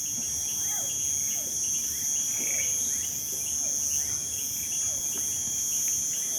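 Night insects, crickets, chirring in a steady, continuous high-pitched trill, with faint short falling calls from other animals underneath.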